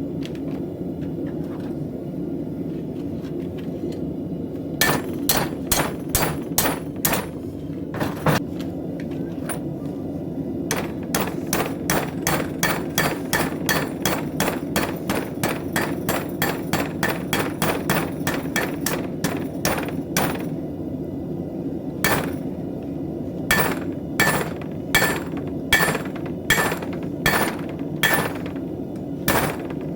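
Hand hammer striking a knife blank on an anvil in runs of ringing blows, at times about three a second and later slower, over a steady low rushing noise.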